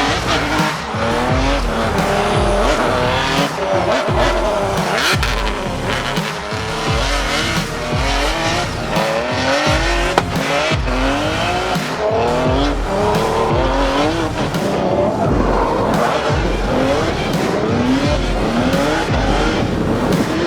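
BMW E30 drift car's engine revving up and dropping back over and over as it is driven through drifts, with tyres squealing as they slide.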